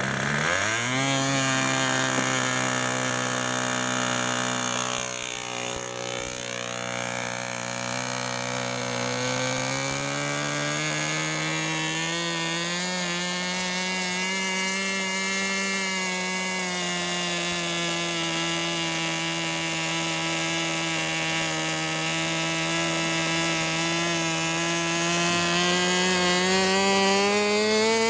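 Small model-aircraft engine running up sharply from low revs in the first second, then holding a steady high-revving whine whose pitch wavers a little, rising again near the end.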